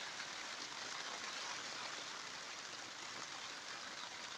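Rain falling rather hard on the polythene cover of a polytunnel, heard from inside as a steady, even hiss.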